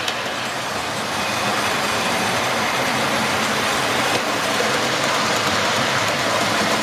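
Model railway locomotive, a Dapol class N2 tank engine, running along the track hauling a heavy train: a steady rumble of motor and wheels on rail, getting a little louder about a second in as it comes closer.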